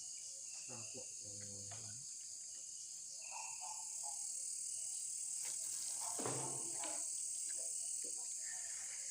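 Night insects chirring in a continuous high-pitched chorus that grows slightly louder about four seconds in.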